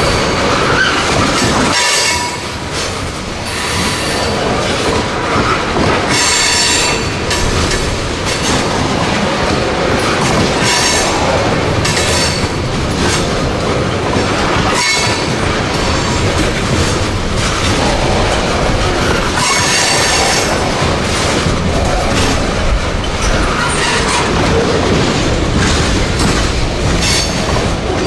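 A train rolling past close by: steady rumble and clatter of the cars on the rails, with metal-on-metal wheel squeal rising and fading every few seconds as the wheels grind through the curves.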